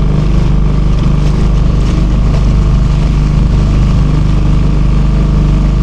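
Small motorboat engine running steadily at an even pitch, heard close.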